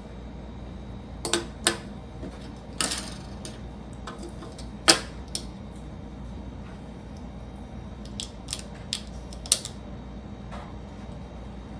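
Plastic Lego bricks being handled and pressed together, giving about nine sharp, irregular clicks, with a short rustle about three seconds in.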